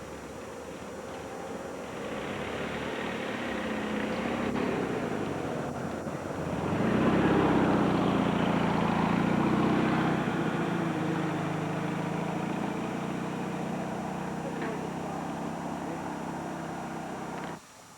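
An engine passing by, growing louder to its peak about seven seconds in, then slowly fading; it cuts off suddenly just before the end.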